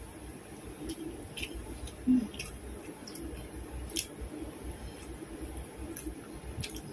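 Close-mic eating sounds: chewing with wet lip smacks and small sharp clicks every half second or so, as meat is picked off grilled poultry bones by hand. One brief, louder low sound comes about two seconds in.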